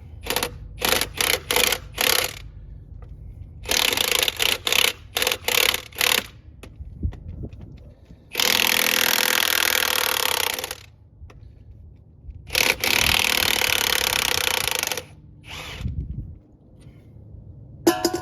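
Milwaukee 1/2-inch-drive impact wrench hammering on the axle stud nuts. It starts in a string of short trigger blips, then runs in two longer stretches of about two and a half seconds each. A couple of dull knocks fall in the gaps between them.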